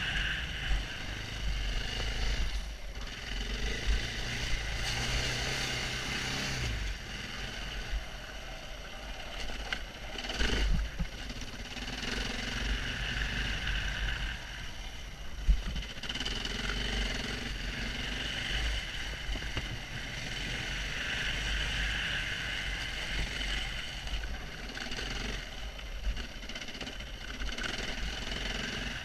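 KTM 690 Enduro R's single-cylinder engine running as the bike rides a sandy dirt track, its note rising and falling with the throttle. A sharp knock about fifteen seconds in.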